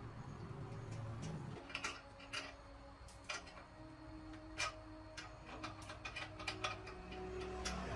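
Irregular light clicks and taps, about a dozen spread unevenly, from small metal parts and tools being handled during the compressor rebuild, over faint background music.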